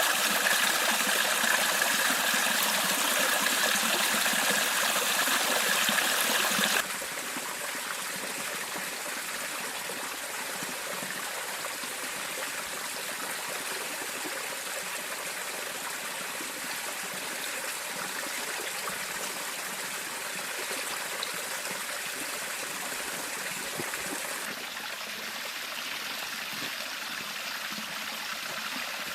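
A river flowing steadily, a loud rush for the first several seconds that drops suddenly to a softer, steady flow about seven seconds in.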